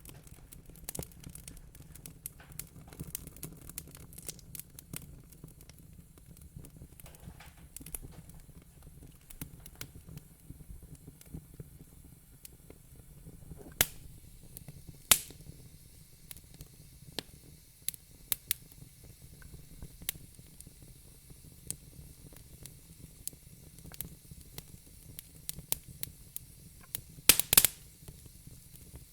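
Wood fire in a fire pit crackling: irregular sharp pops and snaps over a low steady rumble and faint hiss. A few louder pops come about halfway through, and a cluster of loud snaps comes near the end.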